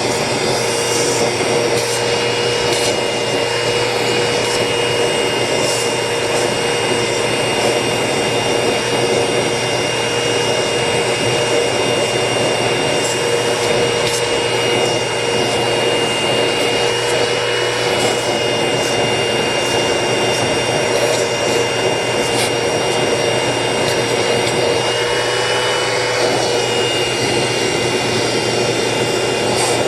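Vacuum cleaner running steadily, sucking dust off an air-conditioner filter, a constant rush with a steady motor whine whose pitch wavers slightly a couple of times as the nozzle moves over the filter.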